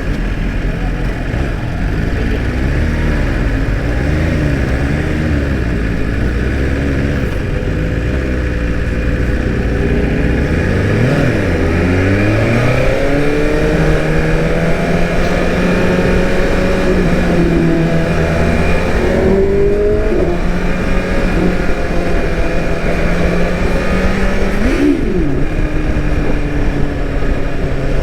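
BMW S1000RR inline-four motorcycle engine running under way, its note wavering with the throttle, climbing about ten seconds in, with a quick rise and fall near the end.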